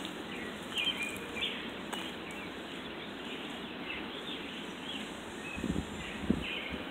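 Small birds chirping in short, scattered calls over a steady outdoor background rush, with a few low thumps near the end.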